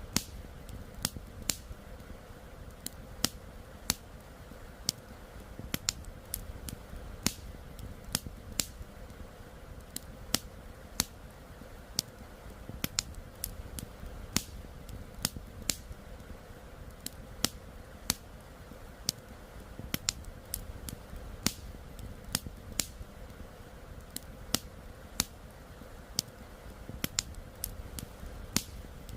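Wood campfire crackling: sharp, irregular pops and snaps of burning wood, a few a second, over a low steady rush.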